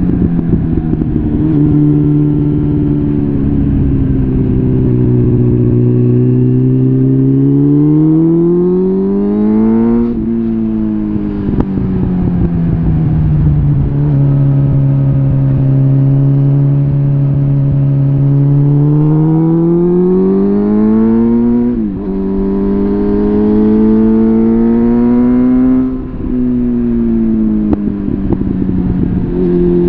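Suzuki GSF650 Bandit's inline-four engine running through a full Arrow exhaust while riding. The note climbs steadily under acceleration and drops sharply at gear changes about 10, 22 and 26 seconds in.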